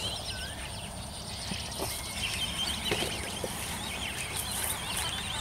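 Small birds chirping over and over, with a steady thin high-pitched tone and a low rumble of wind underneath.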